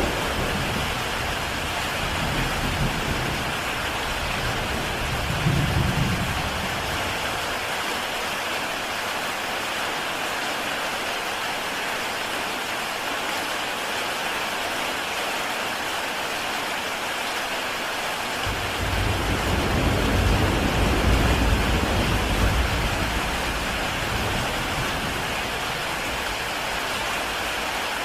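Heavy rain falling steadily on a tile roof, a dense even patter. A deep low rumble runs under it in the first seven seconds and again from about two-thirds of the way through.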